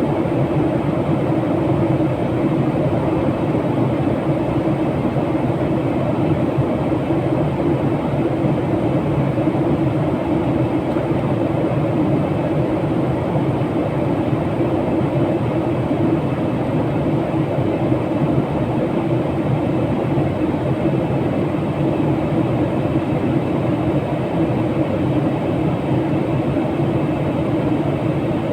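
Steady, even rumble of a moving vehicle, unchanging throughout with no distinct knocks or breaks.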